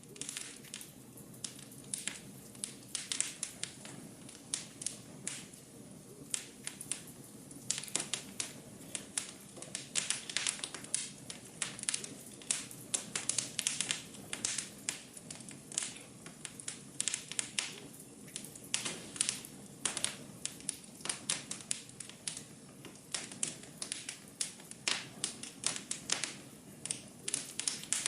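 Fireplace fire crackling: frequent irregular pops and snaps over a soft steady rush of flame.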